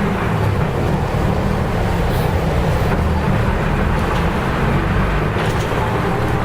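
Nissan Diesel U-UA440LSN city bus heard from inside the cabin while under way: its diesel engine and road noise run as a steady low rumble.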